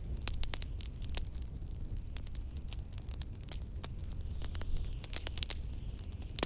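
Fireplace crackling, with many sharp pops scattered irregularly over a steady low rumble of blizzard wind; one louder pop near the end.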